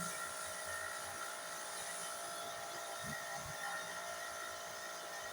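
Steady background hiss and faint hum, with two soft low thumps about three seconds in.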